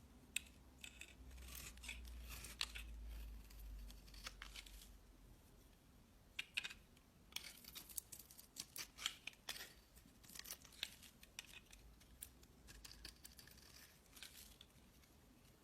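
Irregular crisp clicks and crackles, coming in quick clusters.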